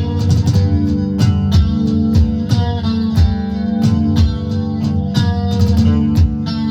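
Band music: guitar chords held and changing, over a steady beat of sharp percussion hits.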